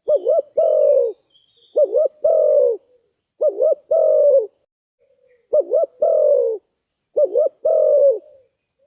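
Spotted dove (tekukur) cooing: five phrases in a row, each two quick looping notes followed by a longer, slightly falling coo, repeated about every one and a half to two seconds. Faint higher bird chirps sound near the start.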